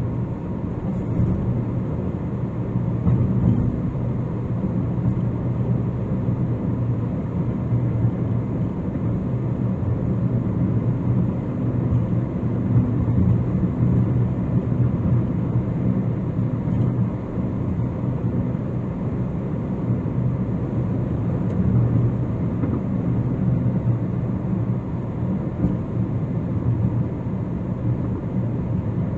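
Steady road noise of a car driving at speed on a concrete-paved highway: a continuous low rumble of tyres and engine.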